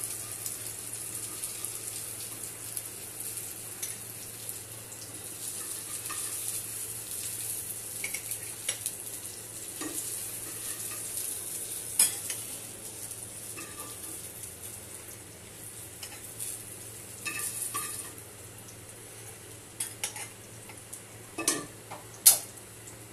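Eggplant slices sizzling in hot oil in a frying pan, with a wooden spatula scraping in the pan and knocking as the slices are lifted out onto a plate. The sizzle dies down over the last few seconds, and there are sharp clicks about halfway and several near the end.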